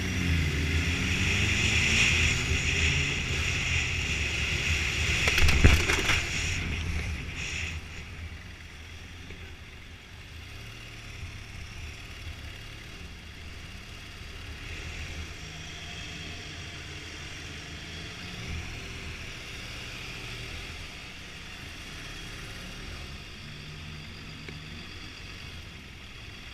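Motorcycle engine slowing down, its note falling, under loud wind rush, with a single sharp knock about five and a half seconds in. After that the sound drops to a quieter, steady low engine running.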